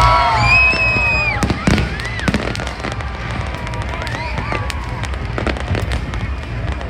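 Fireworks going off: many sharp bangs and crackles in quick, irregular succession, with a few pitched whistling or voice-like tones in the first second and a half.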